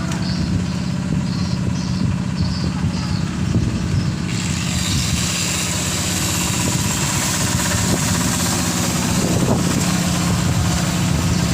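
Strong wind gusting, its rushing hiss swelling sharply about four seconds in and staying up, over a steady low mechanical hum like an idling engine.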